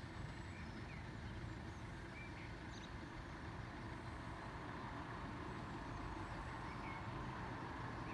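Class 175 diesel multiple unit approaching, a steady low rumble that grows slightly louder over the last few seconds, with a few faint bird chirps.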